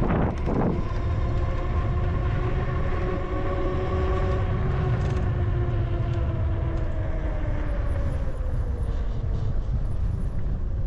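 Strong wind buffeting the microphone while cycling, with several steady tones underneath that slowly fall in pitch during the second half.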